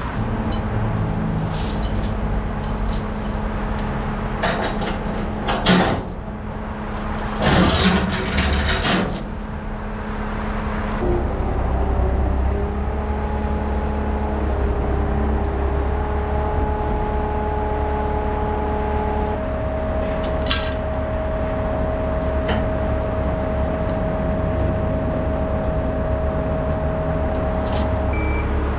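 Mitsubishi Fighter dump truck's 7.5-litre diesel engine running, with two short loud hissing bursts in the first third. The engine then comes up to a higher, steady speed, and a reversing beeper starts just before the end.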